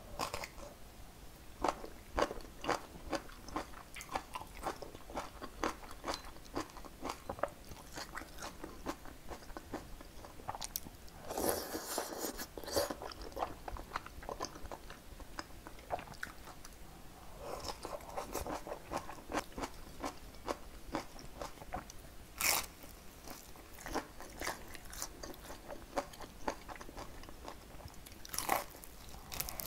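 Close-miked chewing and crunching of fresh napa cabbage kimchi (geotjeori), with several louder runs of crisp crunches, and a bite of scallion pancake near the end.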